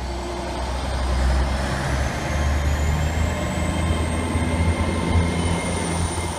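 Engine of a railway vehicle running with a low rumble and a high whine that rises steadily in pitch, as a train accelerating.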